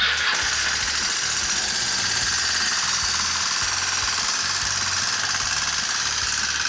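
Kawasaki Estrella's air-cooled single-cylinder engine running with a loud, rapid mechanical clatter, a 'gacha-gacha' racket that seems to come from the cylinder head; its cause is not yet known. The sound comes in suddenly at the start and then holds steady.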